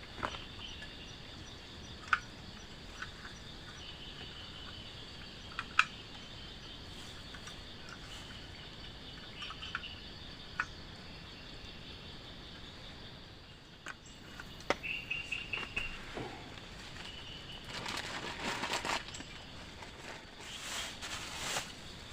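Forest ambience: insects such as crickets trilling steadily, with scattered sharp clicks, a bird's chirps about two-thirds of the way through, and a few short bursts of hissing noise near the end.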